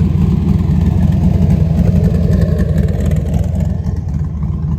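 A car engine running close by, a steady low rumble.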